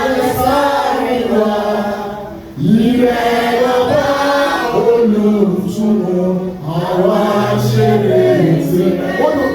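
Voices singing a Celestial Church of Christ hymn about the Holy Spirit's dove in a chant-like way, in phrases with a brief break about two and a half seconds in.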